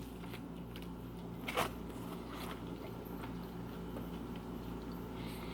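A person chewing a bite of a bacon BLT sandwich, with soft, scattered mouth clicks and one louder smack about a second and a half in. A steady low hum runs underneath.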